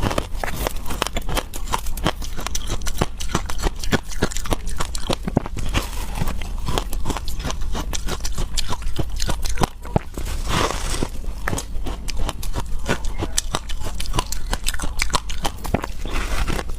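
A person biting and chewing freezer frost, with many sharp crunches in quick succession.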